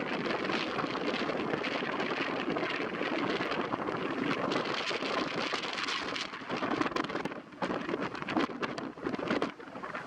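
Strong wind buffeting the microphone in the rain, a dense steady rush that turns gusty and uneven about six seconds in.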